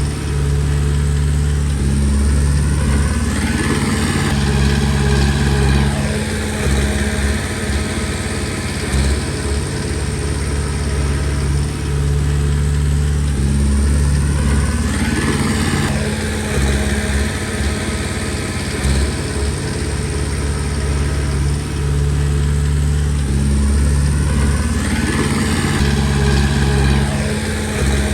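Diesel engine of a Komatsu D20P crawler bulldozer running steadily under work. Its sound rises and falls in pitch about every 11 seconds, three times in all, as the machine works through repeated push cycles.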